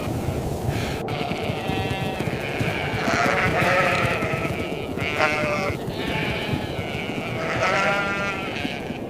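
Goats bleating, about four quavering bleats, over the steady rush of blizzard wind.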